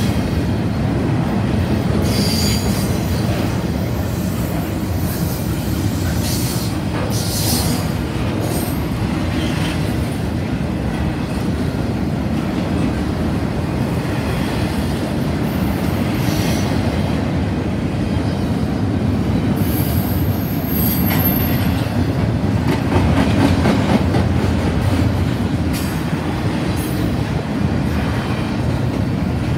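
Double-stack intermodal freight cars rolling past at speed: a steady, loud rumble of steel wheels on rail, with several brief high-pitched wheel squeals scattered through.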